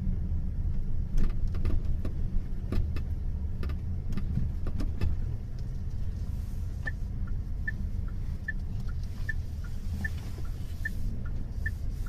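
Cabin of a Jetour Dashing SUV on the move: a low steady road-and-engine rumble with irregular sharp creaks and clicks from the body or trim, the creak the owner is complaining of. From about seven seconds in, an indicator ticks steadily in a two-tone tick-tock.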